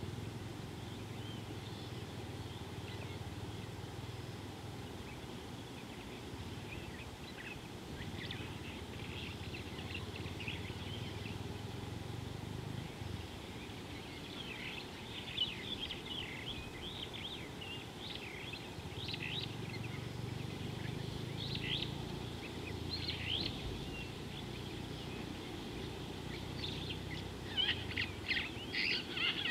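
Wild birds chirping in short, high, scattered calls, more often in the second half and in a quick cluster near the end, over a steady low hum of outdoor background noise.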